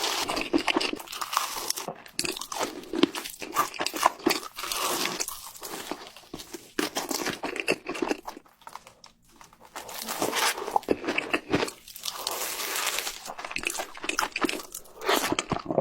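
Close-miked crunching and chewing of seafood, in stretches of crackly bites broken by short pauses.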